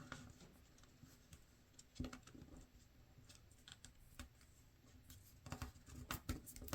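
Faint rustling and light taps of a sheet of paper being folded and creased by hand, with a few louder taps near the end.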